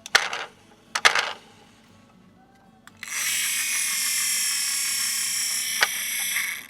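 Two short clicking rattles, then a small electric motor whirring steadily at a high pitch for about three and a half seconds before cutting off.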